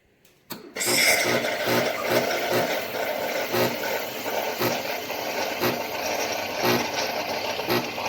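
A click, then the Chefman espresso machine's pump starts and runs steadily, pulsing about once a second.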